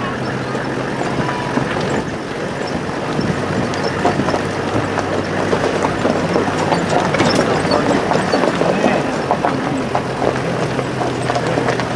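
A vehicle engine running steadily with a low hum, under a busy clutter of fainter, shifting sounds that thickens a few seconds in.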